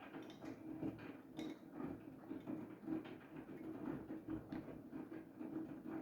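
Siemens iQ700 front-loading washing machine in its main wash on cotton at 60 °C: the drum turns with irregular soft clicks and knocks from the tumbling wet laundry over a steady motor hum.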